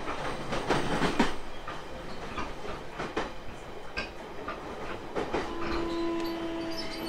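JR East E721 series 500 subseries electric train running, heard aboard: a steady rumble with irregular sharp clacks of the wheels over rail joints. About five and a half seconds in, a steady humming tone sets in and holds.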